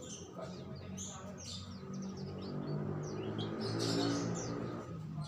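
Many small songbirds chirping and twittering in quick short calls. A low drone builds through the middle, loudest about four seconds in, then fades.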